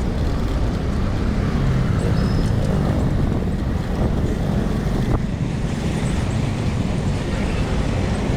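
Steady road and traffic noise with a low, fluctuating rumble, heard while riding a bicycle along a road.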